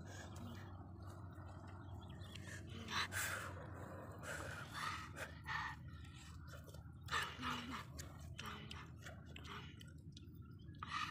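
A person biting and chewing grilled fish off a bamboo skewer: irregular short chewing and mouth noises over a steady low background noise.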